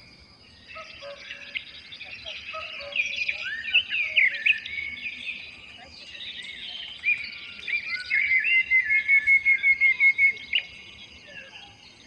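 Several birds singing and calling together in tropical forest: varied chirps and whistled glides, then a quick run of repeated notes, about five a second, lasting a couple of seconds. A faint steady insect whine sits high behind them.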